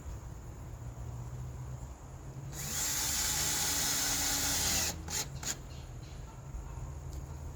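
Power drill running, loudest in one burst of about two seconds near the middle, followed by a few sharp clicks.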